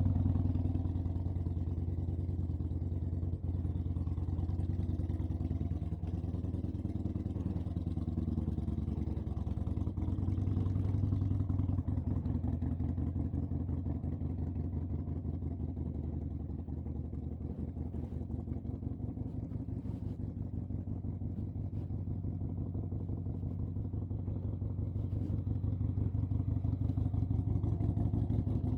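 An engine running steadily at a low, even speed throughout.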